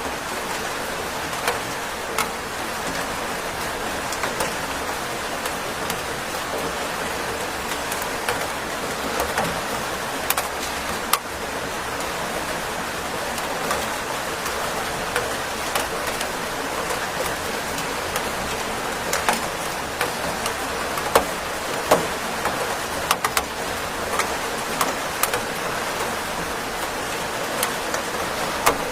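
Steady rainfall with a constant hiss and many scattered drops ticking sharply on a surface, a few louder drips standing out.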